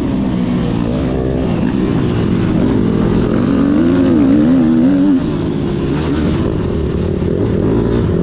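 Motocross bike engine revving up and down as it rides, its pitch climbing and falling again and again, with a sharp drop about five seconds in.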